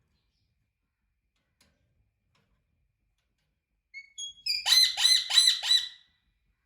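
Indian ringneck parrot calling: a few short high chirps, then four quick loud harsh squawks in a row.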